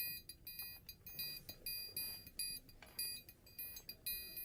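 Faint, steady repeating electronic beeping, high-pitched, at about two short beeps a second.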